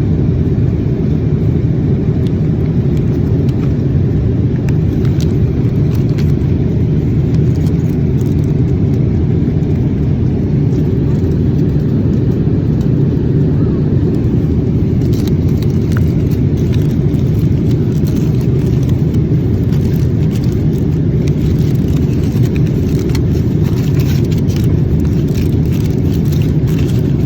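Steady low roar of a Boeing 787-8 airliner cabin in flight, engine and airflow noise, with a few faint clicks.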